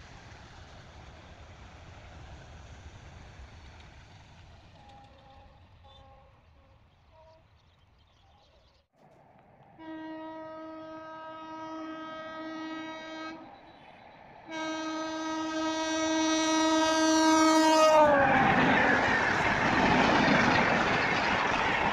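A freight train rolls past and fades away. About ten seconds in, a train horn sounds two long blasts, and the pitch of the second drops as the locomotive passes. A passenger train then rushes through close by at speed without stopping, loud and dense with rushing and wheel noise.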